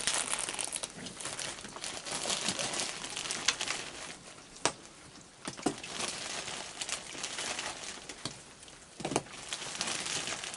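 A plastic bag crinkling and rustling as it is handled, with scattered sharp clicks.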